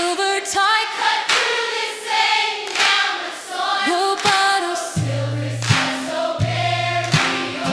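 Music: a choir singing over a band, with a low bass line coming in about five seconds in.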